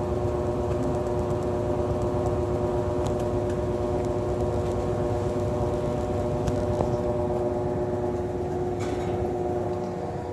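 Whirlpool washing machine spinning a huge load of towels at high speed: a steady motor and drum whine over a low rumble, its pitch shifting slightly about seven seconds in.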